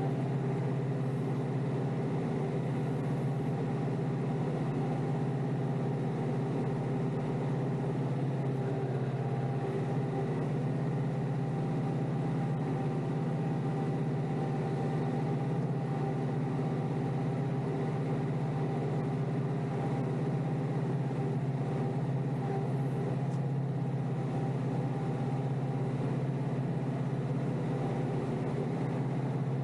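Kioti DK5320SE compact tractor's diesel engine running steadily, heard from inside the tractor's cab.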